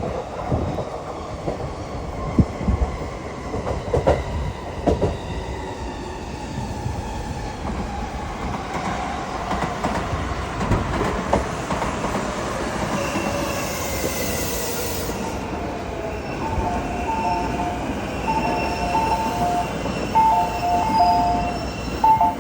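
Shinkansen train running on the rails: a steady rumble with scattered wheel clicks, and a rushing hiss that swells and cuts off suddenly about two-thirds through. Near the end, a two-tone electronic signal pulses, its two notes alternating.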